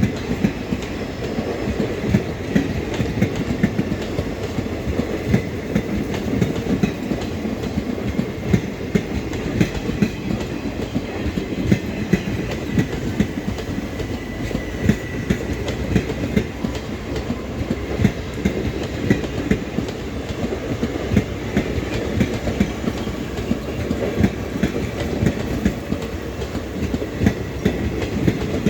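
Passenger train coaches rolling steadily past, their wheels clicking over the rail joints many times a second in a continuous rumble.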